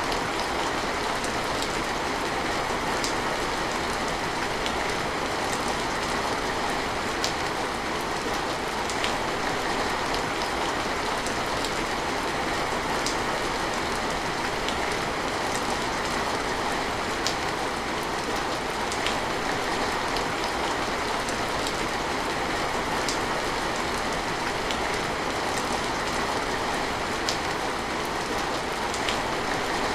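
Steady rain falling as an even hiss, with single drops ticking sharply at irregular moments every second or two.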